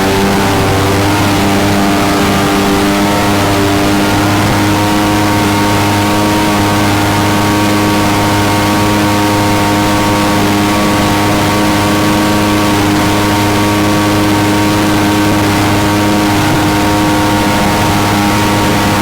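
Mini jet boat's engine running at speed, a loud steady drone over a hiss. Its pitch shifts slightly in the first few seconds and then holds even.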